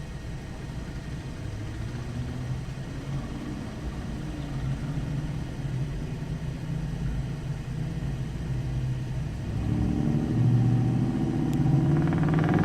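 Diesel locomotive engine rumbling, growing clearly louder about ten seconds in as it draws nearer, its pitch bending near the end.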